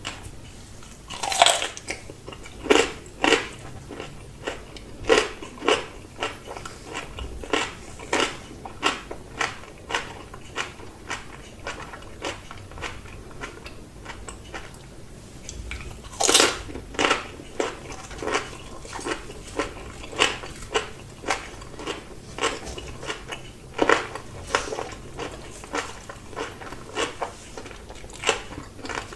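Close-miked eating of crunchy food: loud crunching bites about a second and a half in, midway and again near the three-quarter mark, each followed by steady crunchy chewing at roughly two chews a second.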